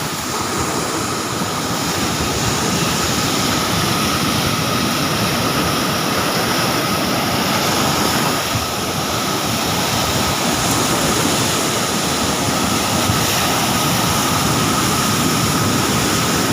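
Sea surf washing onto a beach: a loud, steady rush of water noise with no distinct individual breakers.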